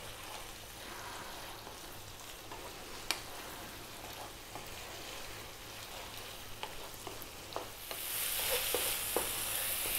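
Thick lamb bhuna masala sizzling in a frying pan on maximum heat, lid off, to dry it out, while a wooden spatula stirs it and scrapes and taps against the pan. The sizzle gets clearly louder about eight seconds in.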